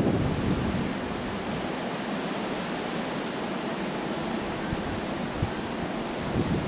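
Blizzard wind blowing steadily through the trees, an even hiss, with the low buffeting of wind on the microphone dying away in the first second.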